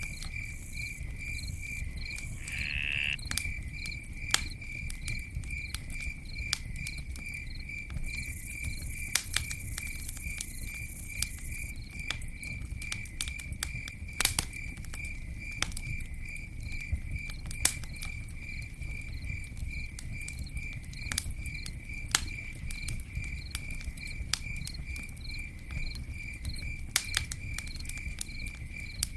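Campfire burning, with scattered sharp pops and crackles over a low steady rumble, while a cricket chirps a steady, pulsing high note throughout. A high hiss rises for a few seconds about eight seconds in.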